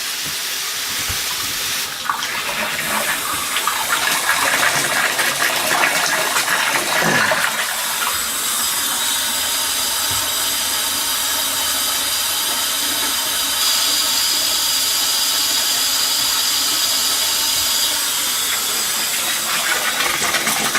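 Water running steadily through an old brass plumbing fixture turned on to test a freshly replaced washer, with water still pouring from a leak. The flow gets louder about two seconds in and then holds steady.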